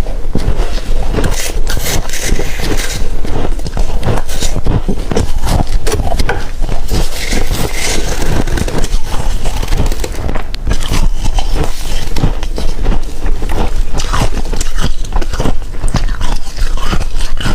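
Humidifier frost being crunched and chewed: a dense, unbroken run of crunches.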